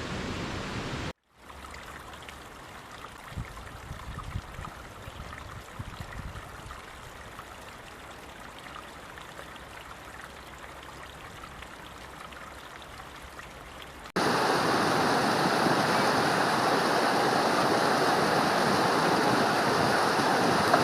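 Stream water flowing over rocks, heard as a run of separate recordings joined with abrupt cuts: a brief gap about a second in, then a quieter stretch with a few low knocks, then a sudden switch to louder, rushing water about two-thirds of the way through.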